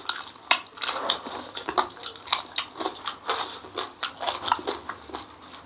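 Close-miked wet chewing and lip-smacking of a person eating spicy chicken feet and noodles by hand, sucking the sauce from his fingers: a quick, irregular run of smacks and clicks.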